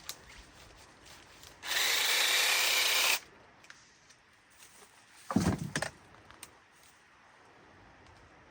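A power tool runs in one short, steady burst of about a second and a half. A few seconds later comes a cluster of sharp cracks.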